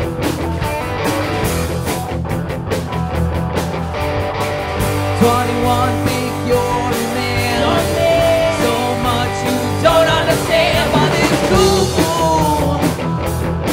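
Rock band playing a song, with singing over guitar and drums.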